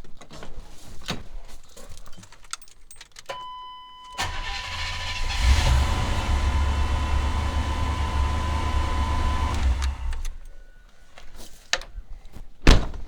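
1990 Chevy 1-ton dually pickup's gas engine cranked and starting about four seconds in, then running for about five seconds before it is shut off. A steady electronic warning tone sounds with the key on, and a sharp knock comes near the end.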